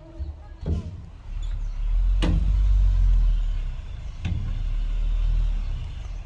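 Heavy diesel earthmoving machinery running close by with a deep rumble that swells and then eases, and three sharp knocks.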